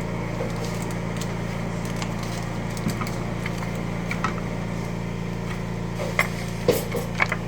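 A steady low machine hum runs throughout, with scattered light knocks and clicks of handling on top; a few sharper knocks come near the end.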